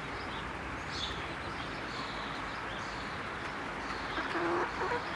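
Birds making short, high chirps over a steady background hiss, with a brief lower call just after four seconds in.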